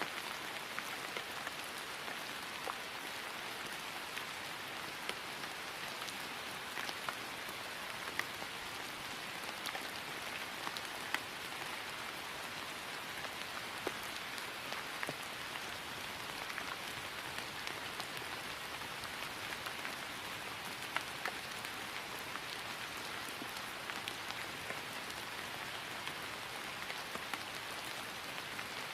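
Steady rain falling on grass: an even hiss with scattered, sharper individual drop ticks.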